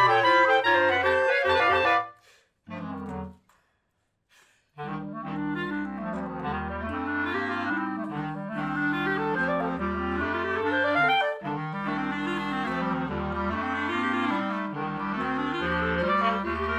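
Clarinet quartet playing live: a loud passage breaks off abruptly about two seconds in, a short phrase follows, and after a pause of about a second and a half the ensemble comes back in with held chords and moving lines.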